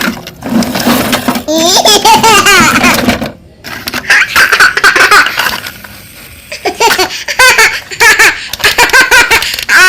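High-pitched laughter like a baby's, in several loud bursts with short breaks between them.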